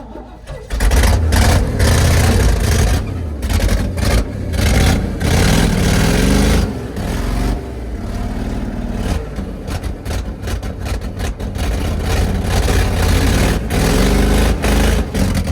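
Cold engine of a stuck two-wheel-drive vehicle revving hard in reverse, rising and falling several times, as the driver tries to rock it backwards. The revving clears out its rough running.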